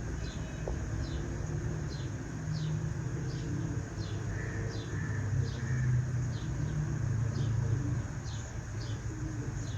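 A small bird chirping over and over, short falling chirps about twice a second, over a steady low rumble like distant traffic.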